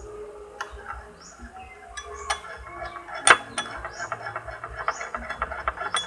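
A stirrer clicking and scraping against the side of a container as glue and water are stirred together. There are a few scattered knocks at first, one loud knock a little past halfway, then a quick run of rapid taps to the end.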